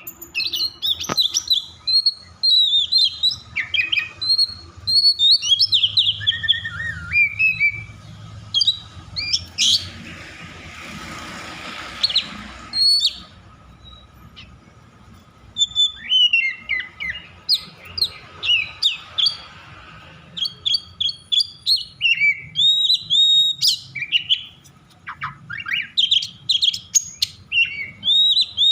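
Oriental magpie-robin (kacer) singing in an agitated, excited state: fast runs of sharp whistles and chirps, varied and closely packed. A lull comes partway through, with a short hiss, before the dense phrases resume.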